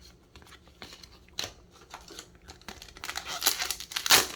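Foil wrapper of a Yu-Gi-Oh OCG booster pack crinkling and tearing, after a few light ticks and rustles; the crinkling grows dense in the last second and a half and is loudest near the end.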